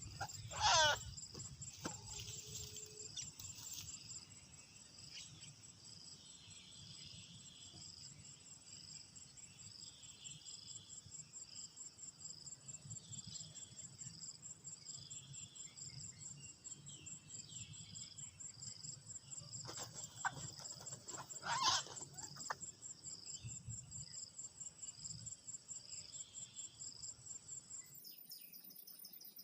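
Insects, crickets or similar, chirping in a steady, fast-pulsing high trill, faint overall. Two short, loud sweeping calls break in, one about a second in and one about three-quarters of the way through. Near the end the chirping shifts to a higher pitch.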